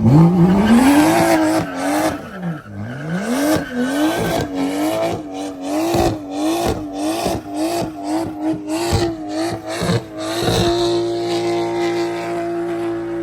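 Car engine revved hard while the car spins its tires. The pitch climbs, dips and climbs again, then wavers up and down about twice a second before holding steady near the end. Tire squeal and a run of short sharp cracks come through over it.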